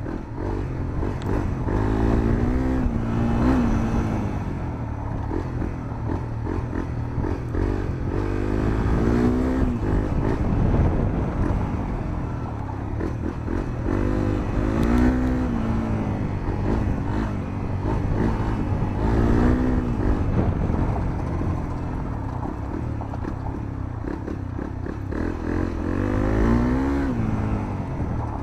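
Honda CRF250L's single-cylinder four-stroke engine, breathing through a Moriwaki aftermarket muffler, heard onboard while being ridden. The engine note climbs and drops again and again, revving up and easing off about every five or six seconds.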